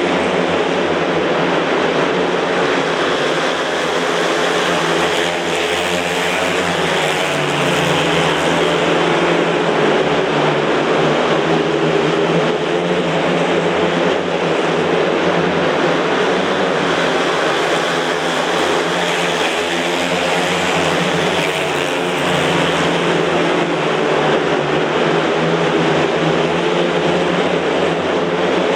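Speedway motorcycles racing, their 500 cc single-cylinder methanol engines running hard in a continuous engine note that wavers a little in pitch as they lap the track.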